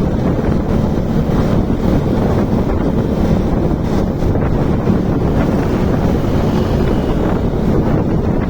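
Wind rushing over the microphone of a moving motorcycle, a loud steady low rumble, with the bike's engine running underneath.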